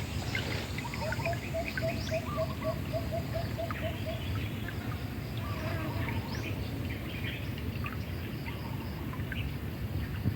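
Birds calling over the steady low rush of a river. One bird gives a quick run of short, even notes, about four a second, from about a second in until about four seconds in, while thinner chirps come and go throughout.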